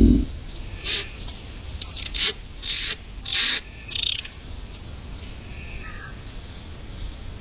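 Coucal giving five short rasping hisses in the first four seconds, with a faint whistled note near the end and crickets chirping steadily behind.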